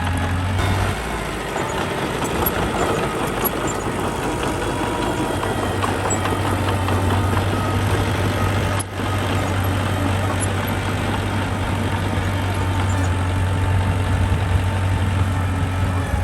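Diesel engine of earthmoving machinery running steadily, a constant low hum under a dense rattle, with a momentary break about nine seconds in.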